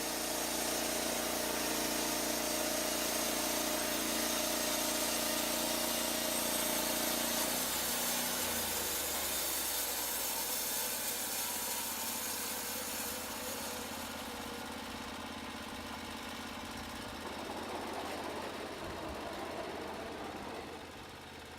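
Portable bandsaw mill's petrol engine running, with the band blade cutting through a log. The engine note changes about eight seconds in, and the sound then slowly grows quieter.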